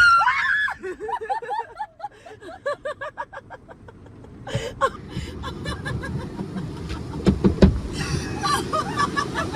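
A short high cry, then a long run of quick laughter, about five syllables a second, trailing off. After that, a steady rushing noise with a few sharp knocks.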